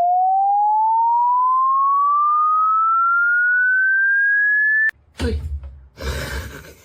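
A single pure electronic tone gliding steadily upward in pitch, a rising sound effect that cuts off suddenly about five seconds in. Then come a click, a low thump and a short burst of rustling noise.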